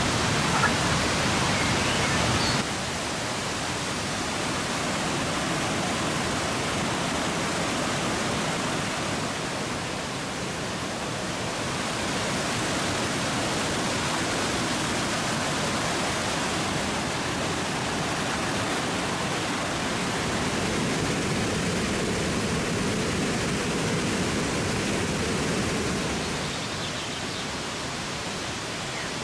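Steady, even rush of water pouring over the Krka's travertine waterfalls. It drops slightly in level about two and a half seconds in, then holds steady.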